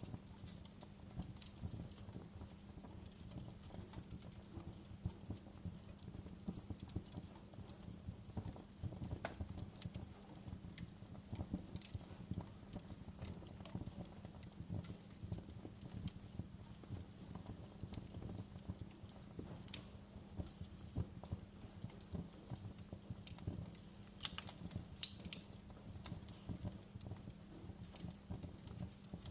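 Wood fire crackling in a fireplace: a dense, low, continuous crackle with scattered sharp pops and snaps, over a steady low hum.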